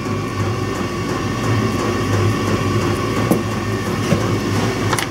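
Steady machine hum, like a fan or air-conditioning unit running, with a few sharp light clicks from handling the work in the second half.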